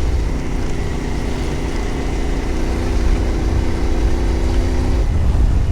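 Adventure motorcycle engine running at a steady cruise while riding, over a heavy low rumble; the engine note changes about five seconds in.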